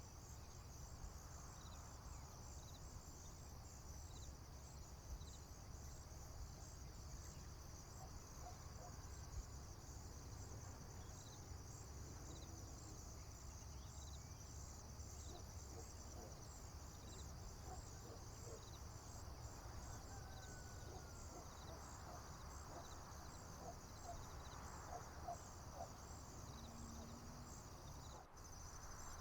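Faint countryside ambience: a steady high-pitched chorus of crickets trilling, with scattered faint bird chirps through the middle and a low rumble underneath. The trilling breaks off briefly near the end and resumes.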